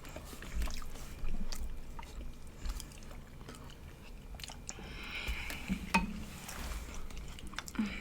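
Close-miked chewing and wet mouth clicks of people eating barbecue ribs and mashed potatoes, irregular and scattered.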